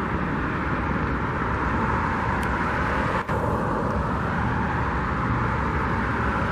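Steady rumbling, hissing outdoor noise of the kind a vehicle or traffic makes, with a brief dip about three seconds in.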